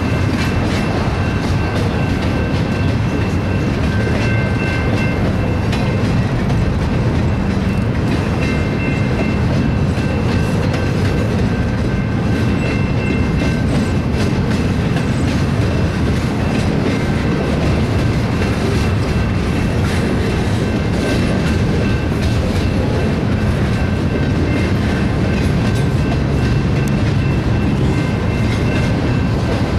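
Double-stack intermodal container train rolling past at steady speed: a continuous rumble of loaded well cars, with the clickety-clack of wheels over rail joints and a faint high tone that comes and goes.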